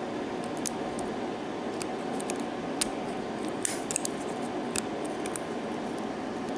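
Light metallic clicks and a brief scrape from small tools working on a lock cylinder, trying to free a spool pin that is hung inside. They come irregularly over a steady background hum.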